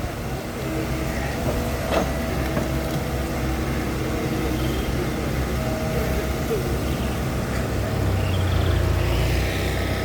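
A steady low engine rumble with a single knock about two seconds in, heavier for a second or two near the end.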